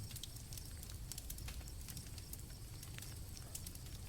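Campfire crackling, with frequent scattered pops over a low rumble, and crickets chirping faintly in a high steady trill.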